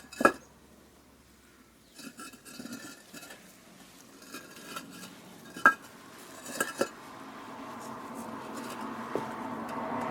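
Concrete blocks being stacked: a few sharp, hard knocks with a short ring as block meets block, about a second in and again around the middle, with smaller scraping clatter between. A steady rushing noise grows louder through the second half.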